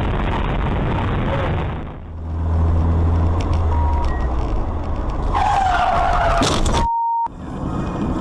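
Dashcam recordings of cars on the road: steady road and engine noise, then a car engine's low hum. A falling squeal over a burst of hiss lasts about a second, then a short steady electronic beep near the end.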